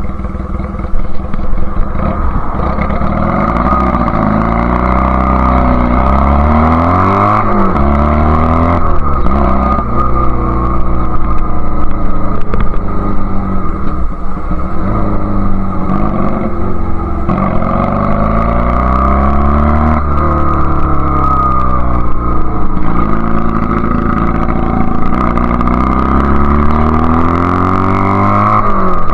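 Honda Rebel CA125 motorcycle's single-cylinder 125 cc engine under way, its revs climbing and falling repeatedly as it pulls. The Keihin carburettor needle clip sits in its richest position 4, a setting the rider judges the wrong move for the spluttering between quarter and three-quarter throttle.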